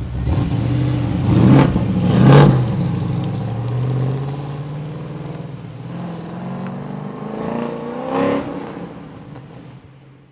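Holden VT Commodore's Gen 3 V8, fitted with an aftermarket exhaust and cam, running and revved sharply twice, about one and a half and two and a half seconds in, then once more near eight seconds. The sound dies away toward the end.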